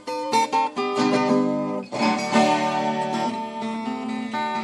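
Acoustic guitar music: picked single notes, turning to fuller strummed chords about two seconds in.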